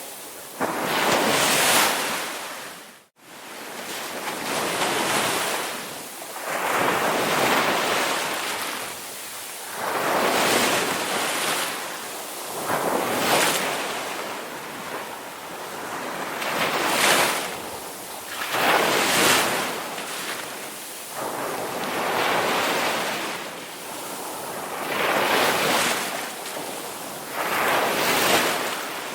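Ocean surf: waves breaking and washing in, the rush of water swelling and fading every two to three seconds. About three seconds in the sound drops out to near silence for a split second, then fades back in.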